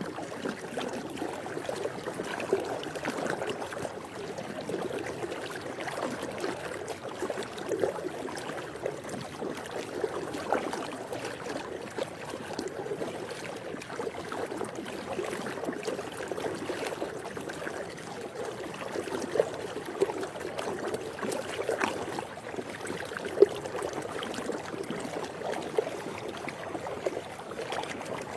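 Swimming pool water lapping and splashing: a steady wash dotted with many small splashes, with one sharper splash late on.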